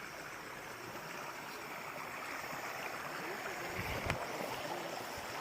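Steady rushing of flowing water, with a single sharp click about four seconds in.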